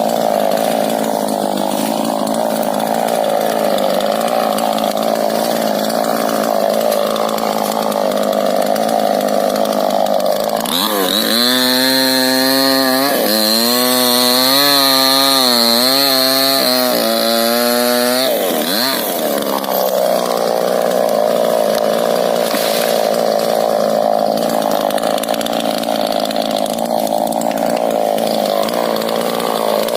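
Two-stroke chainsaw running hard throughout, cutting rubber tree wood. From about 11 to 18 seconds in its engine note turns into a clear, wavering pitch, then goes back to the rougher cutting sound.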